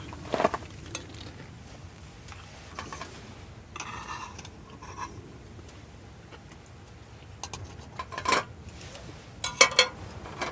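Metal utensils and cookware clinking and knocking in a few separate handling sounds, one with a short ring about four seconds in and a cluster near the end.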